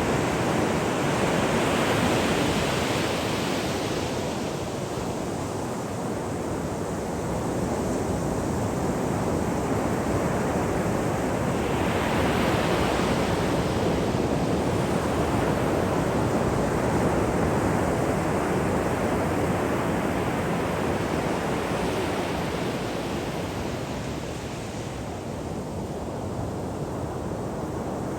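Ocean waves breaking on a shore: a steady surf rumble that swells and ebbs, with a hissing wash as a wave breaks near the start and again about ten seconds later.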